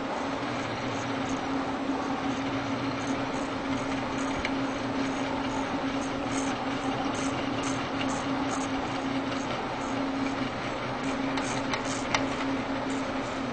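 A 3D printer running: a steady motor hum with a constant tone that briefly drops out about ten seconds in, over a steady fan-like whir, with faint light ticks.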